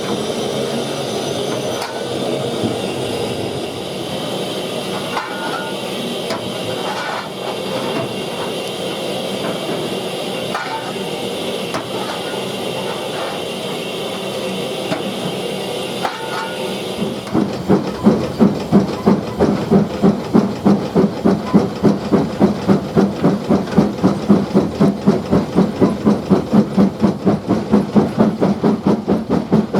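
Steam locomotive hissing steadily. About halfway through, its exhaust beats begin as a fast, even chuffing that keeps going.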